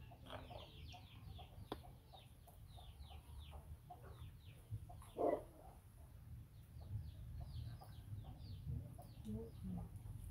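Birds peeping: rapid, high, falling chirps, in two spells with a quieter gap between them. A louder short sound comes about five seconds in, over a low steady hum.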